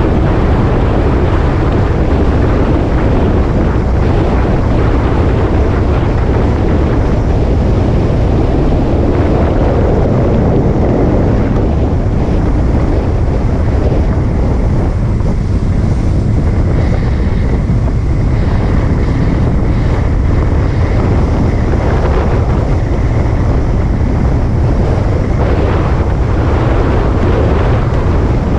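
A motorcycle underway, heard as a steady rush of wind noise on the microphone mixed with engine and road noise. The sound holds at an even level throughout and is heaviest in the low rumble.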